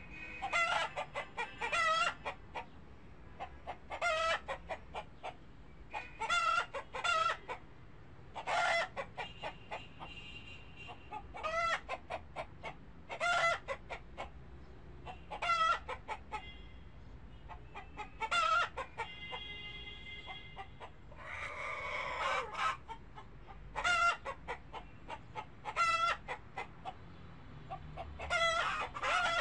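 Animal calls: groups of short, rapid pitched calls repeating about every two seconds, with one longer, louder rising call a little past the middle.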